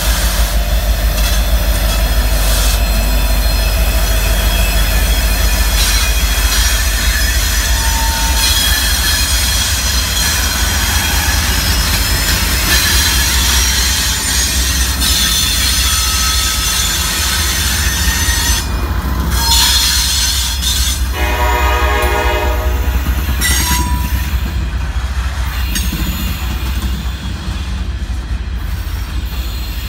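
Freight train rolling past: an NS SD70ACU and two BNSF Dash 9 diesel locomotives run by with a steady low rumble, followed by loaded tank cars with wheel noise and high squealing from the wheels. About two-thirds through, a short pitched sound with several tones stands out.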